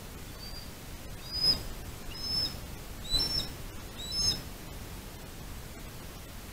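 Bird calls: a series of short, high, pitched notes, about one a second, which stop after about four and a half seconds. A faint steady hiss runs underneath.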